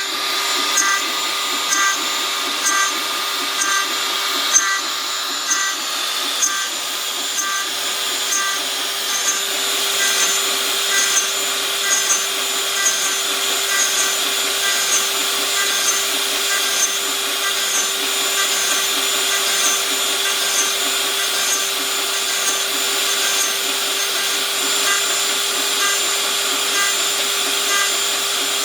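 DIY CNC router milling aluminium in trochoidal loops: the spindle runs with a steady whine and cutting hiss, while the Nema 17 stepper motors add short higher tones that repeat about once a second as the cutter circles.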